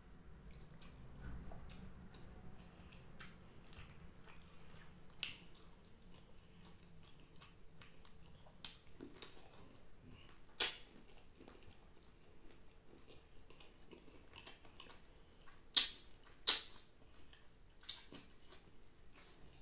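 A person eating rice and curry by hand and chewing with the mouth open. Soft wet mouth sounds are punctuated by a few sharp, wet clicks, one about halfway through and two close together near the end.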